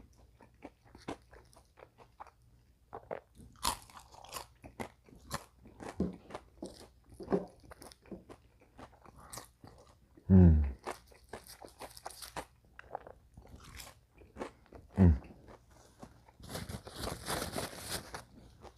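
Close-miked crunching and chewing of crispy fried food, many short crisp crunches with two brief low vocal sounds in between and a denser burst of crackly crunching near the end.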